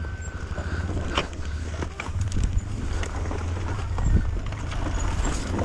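Enduro dirt bike running at low revs over rough trail, with frequent knocks and rattles as it jolts over the ground.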